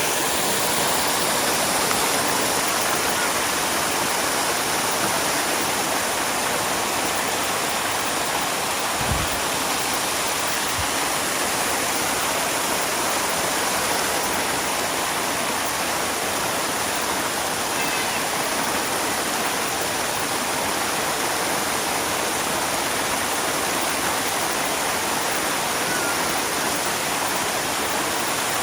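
Mountain valley stream rushing steadily over rocks, an even water roar. Two faint low thumps come about nine and eleven seconds in.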